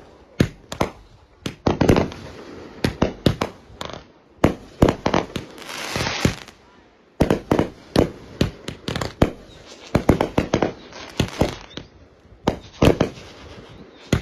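Fireworks going off: many sharp bangs and cracks in quick, irregular succession, with a brief hiss about six seconds in.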